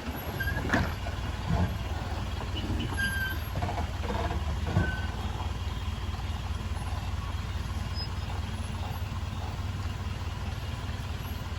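Truck's diesel engine running steadily on the road. A few short high beeps and a couple of knocks come in the first five seconds.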